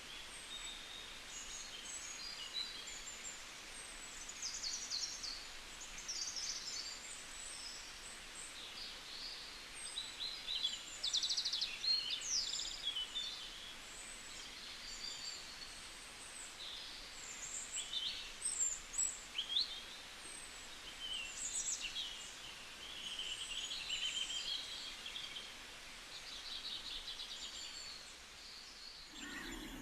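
A flock of birds chirping and calling at once: many short high chirps, trills and upswept notes overlapping, over a steady background hiss. The sound cuts off abruptly near the end.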